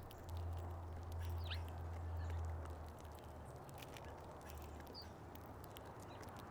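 Birds feeding at a packed feeder: many quick clicks and taps of pecking and scrabbling at seed, with two brief high chirps. A low rumble underneath is loudest in the first three seconds.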